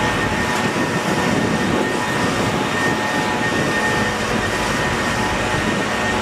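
Steady machine noise with a constant whine, unchanging throughout.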